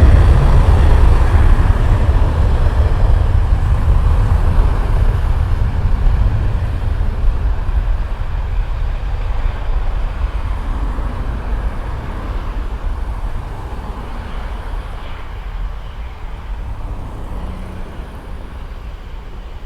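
Jet airliner engines roaring close by, a deep rumble that fades steadily as the plane moves away.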